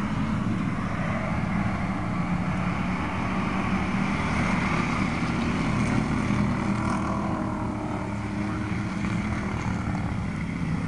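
Pro street car's engine idling steadily.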